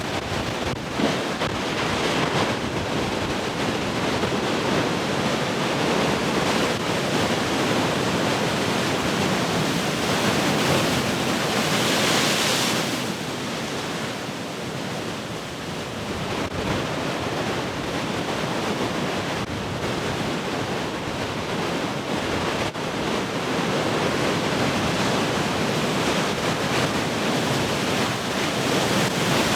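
Heavy ocean surf breaking and washing in a continuous roar that swells and eases, with one brighter, hissing surge about twelve seconds in. Wind buffets the microphone.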